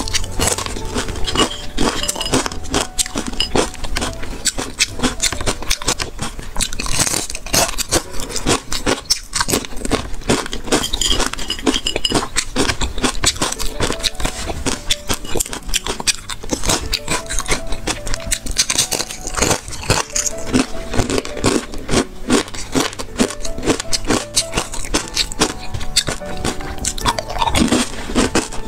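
Person crunching and chewing crispy fried pork-fat cracklings, a dense run of sharp, irregular crunches, over soft background music.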